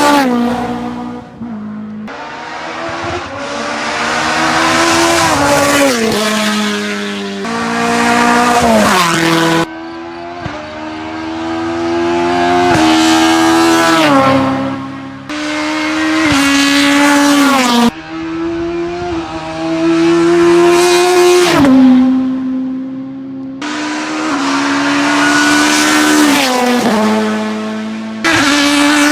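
Hillclimb race cars at full throttle, one after another, their engines revving up and dropping in pitch at each upshift as they accelerate up the course.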